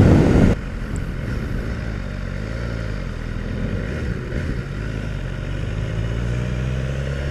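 BMW S1000R's inline four-cylinder engine running at low revs under way, its pitch sagging slightly and then rising steadily near the end as the bike picks up speed. A loud rush of wind noise cuts off about half a second in.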